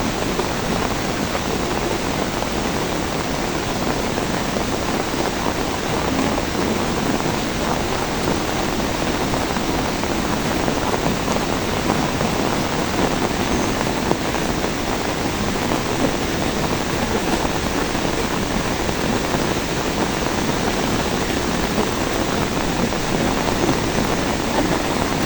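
Rain falling steadily, an even hiss of drops without a break.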